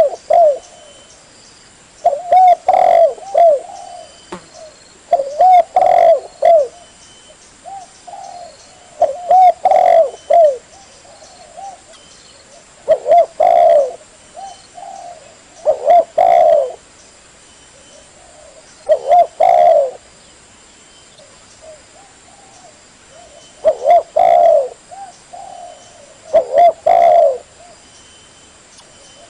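Spotted dove cooing: a repeated phrase of a few soft coo notes, given about eight times, a few seconds apart, with one longer pause past the middle.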